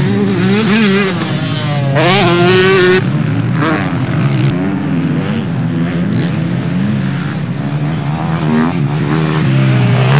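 Several motocross bikes racing, their engines revving up and dropping in pitch as they pass. The loudest, closest pass comes about two to three seconds in with a rising rev.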